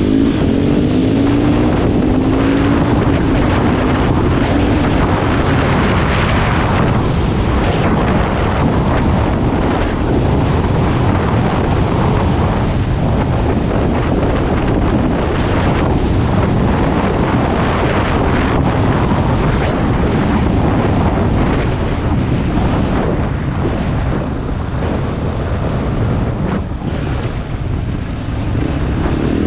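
Heavy wind rushing over the microphone while riding a KTM 500 EXC dirt bike, with its single-cylinder four-stroke engine running underneath. The engine note climbs in pitch at the start and again near the end as it revs.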